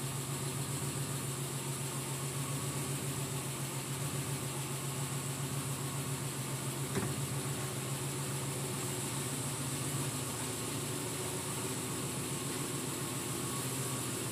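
Alfa Romeo 75 V6 Quadrifoglio Verde's Busso V6 idling steadily, a low even hum, with one short click about seven seconds in.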